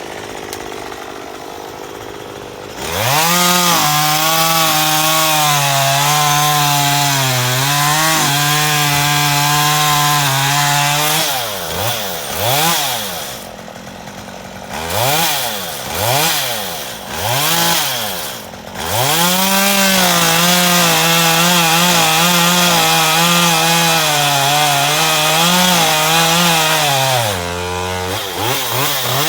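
Chainsaw engine running low for about three seconds, then revved to full throttle and held there, its pitch sagging slightly at times as it cuts into wood. In the middle it is revved up and down several times, then held at full throttle again, dropping briefly near the end before revving back up.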